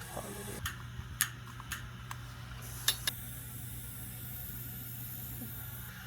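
A steady low electrical hum, with a few light clicks and taps in the first half and a faint high hiss for about three seconds in the middle.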